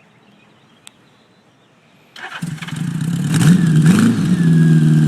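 Honda GL1000 Gold Wing's flat-four engine starting from cold: a brief crank about two seconds in, then it catches, rises in pitch twice, and settles into a steady idle.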